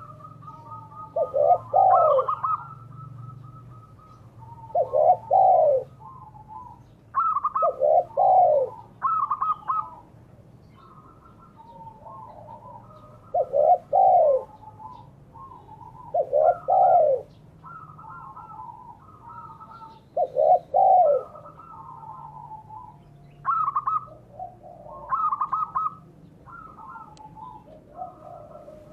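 Spotted dove (derkuku) and zebra dove (perkutut) cooing. Low, arched coos repeat every three to four seconds, with higher, stuttering trilled coos between them.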